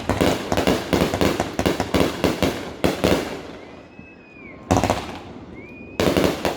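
Fireworks display: a rapid barrage of booming and crackling bursts for about three seconds, dying away, then two more single bursts near the end.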